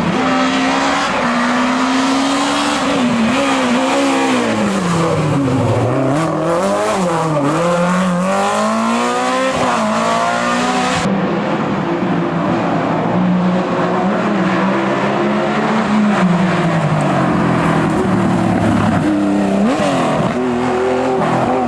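Historic rally car engine revving hard on a special stage, its pitch sweeping up and down repeatedly with throttle and gear changes. About halfway through the sound changes abruptly to a steadier, held engine note.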